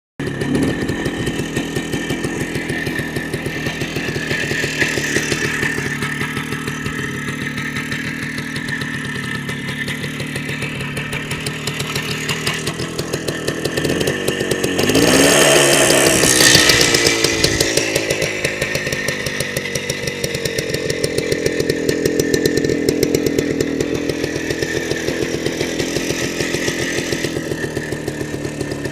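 Minsk motorcycle engine running at a steady idle, revved up briefly about halfway through, then settling back to idle.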